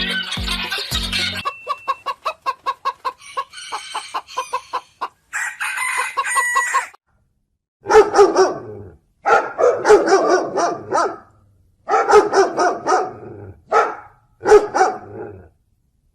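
Chickens clucking in a quick run of short notes, then a rooster crowing loudly several times in a row, each crow a second or two long.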